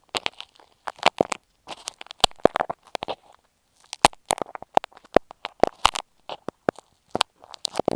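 Ear pick scratching and tapping right on an earphone microphone: irregular crisp clicks and short scratchy rustles, with a pause of under a second a little past the middle.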